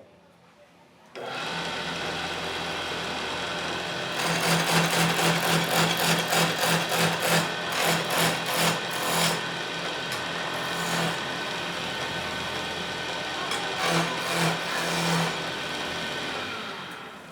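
Wood lathe motor switching on and running steadily, with bouts of rapid, rhythmic scraping as a cutting tool works the spinning wood. It winds down near the end.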